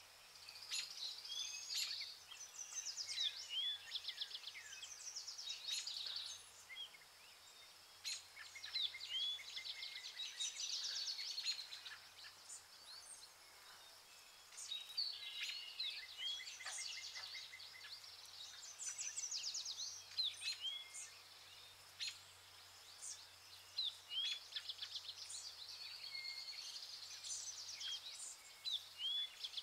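Several birds calling and singing in overlapping bouts of quick chirps, whistled flicks and rapid trills, with brief lulls between bouts. A faint low hum runs underneath.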